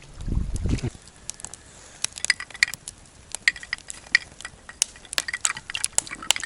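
Irregular light clinks of glassware or tableware, starting about two seconds in, each with a short ring. They come after a brief low rumble of handling noise.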